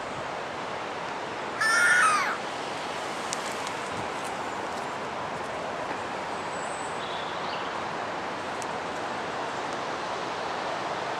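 A bird's single loud, harsh call about two seconds in, over a steady hiss, with a few faint high chirps later on.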